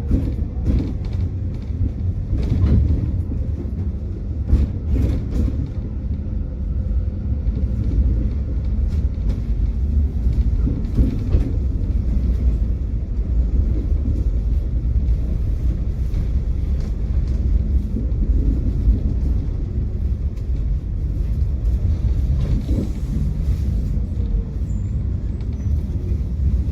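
Tram running along the track: a steady low rumble of wheels and running gear, with occasional short clicks and knocks from the rails.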